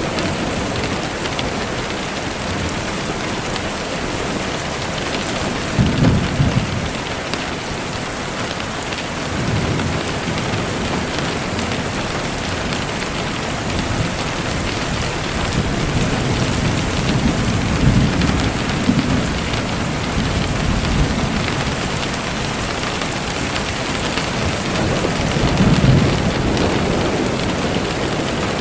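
Steady, even rain hiss with low rumbles of thunder rolling in several times, loudest about six seconds in and near the end.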